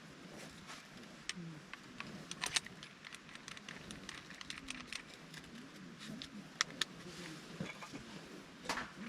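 Irregular small clicks and clinks of objects being handled, the sharpest about two and a half seconds in and twice more near six and a half seconds.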